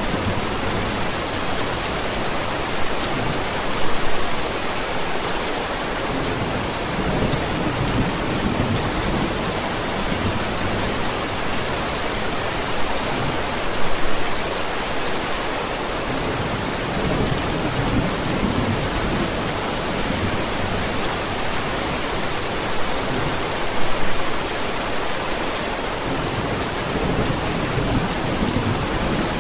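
Steady heavy rain with low rumbles of thunder. Three brief louder bursts come about ten seconds apart.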